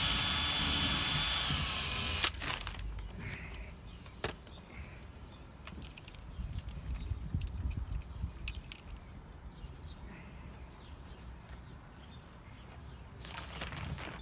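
Power drill running for about two seconds with a high whine that dips in pitch just before it stops sharply, as it drives a screw or bores a pilot hole into wood. Scattered knocks and clicks follow, and the drill starts again briefly near the end.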